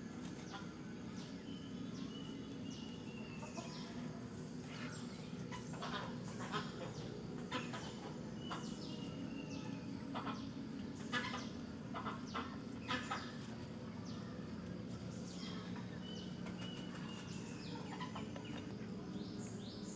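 Birds calling: short sharp chirps and squawks repeated through the middle, and a few drawn-out falling whistled calls, over a steady low hum.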